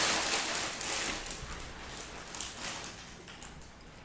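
Snack bag rustling and crinkling, loud at first and dying down over the first second or so, followed by quieter scattered rustles and small clicks of handling.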